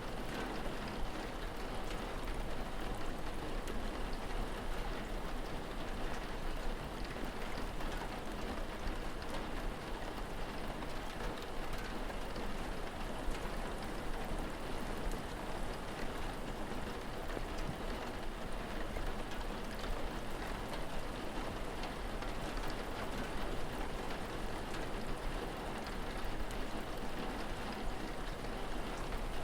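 Steady rain falling, an even hiss with a fine patter of drops over a low rumble, unchanging throughout.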